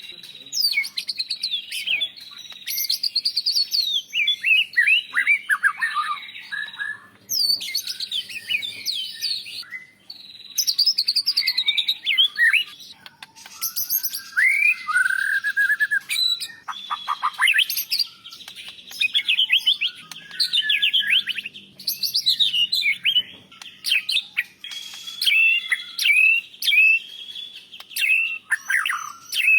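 White-rumped shama singing a varied song of loud whistled phrases, pitch glides and quick chattering notes, with short pauses between phrases. Its song is filled with imitations of other birds, such as canary and lovebird.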